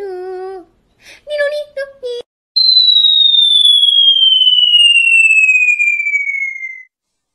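Cartoon 'falling' whistle sound effect: one loud, steady whistle sliding smoothly down in pitch for about four seconds, starting about two and a half seconds in. Before it comes a short stretch of sung, voice-like notes.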